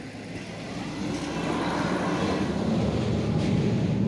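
A diesel passenger train approaching a level crossing, its engine and rolling noise growing steadily louder.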